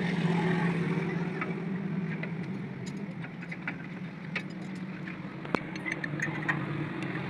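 An engine running steadily at idle, with scattered light metallic clicks and taps.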